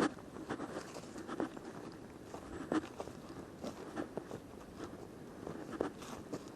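A scattering of light, irregular crunches and clicks, a few sharper ones standing out, with no steady rhythm.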